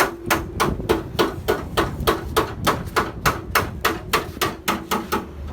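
A hammer striking in a fast, steady run of blows, about three a second.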